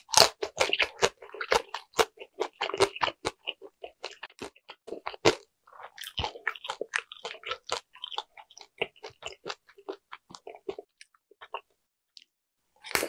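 Close-up chewing of a dumpling: wet, clicking mouth noises, busy at first and then thinning out. A fresh bite lands near the end.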